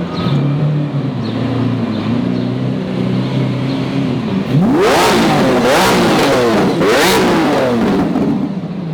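A Lamborghini engine runs steadily, then about halfway through is revved hard three times, its pitch climbing and falling back with each rev.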